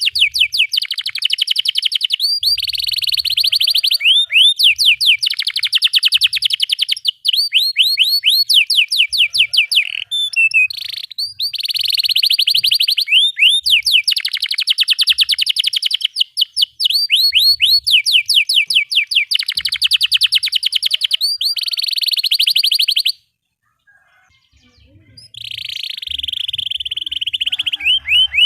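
Canary singing long, rapid trills of quickly repeated sweeping notes, broken by brief pauses. The song stops abruptly a few seconds before the end, then a softer trill starts up again.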